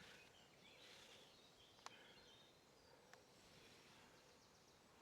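Near silence with faint birdsong and a soft click about two seconds in.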